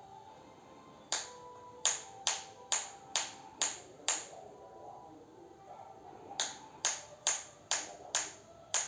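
Sharp snaps keeping a steady beat of about two a second: seven in a row, a pause of about two seconds, then six more.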